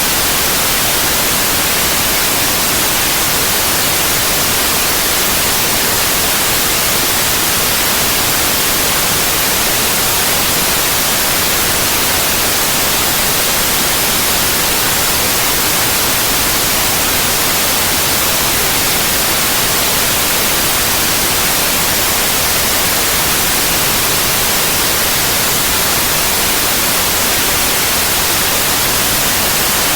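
Synthetic white noise: a steady, loud, even hiss with no breaks or changes.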